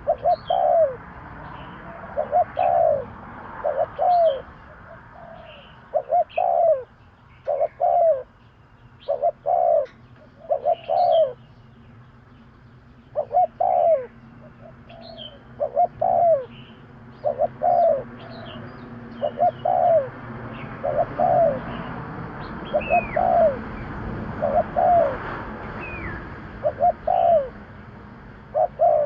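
Spotted dove cooing over and over, short loud coos coming in twos and threes every second or two: the repetitive calling used as a lure to draw in wild doves. Smaller birds chirp faintly and higher in the background.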